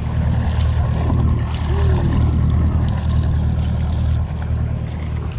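A boat's motor running steadily under way, a low even drone.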